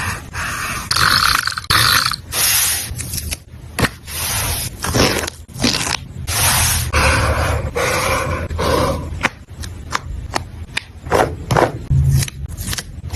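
Close-miked paper and stickers being handled and scraped across a journal page: a run of short scratchy strokes, rustles and light taps.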